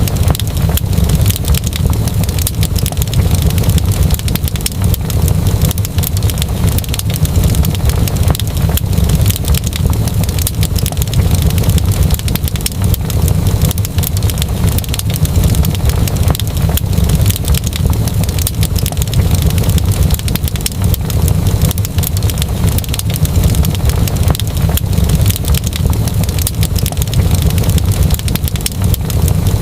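Fireplace fire crackling, with constant small pops and snaps over a steady low rumble.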